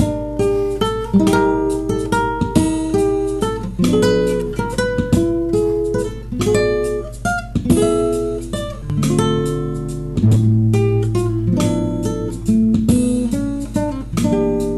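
Acoustic guitar playing an instrumental passage of quickly plucked and strummed chords over a low bass line, with no singing.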